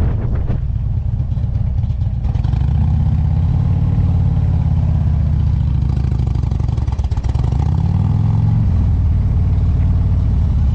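Motorcycle engine running steadily under throttle; its pitch dips and then climbs again about seven seconds in.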